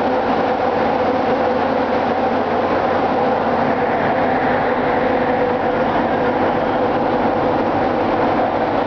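Machinery in a ship's engine room running: a loud, steady din with a constant hum that does not change.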